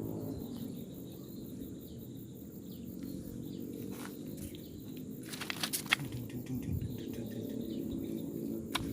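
Outdoor ambience: faint chirping of insects and birds over a steady low rumble, with a quick cluster of sharp clicks a little past halfway and a single click near the end.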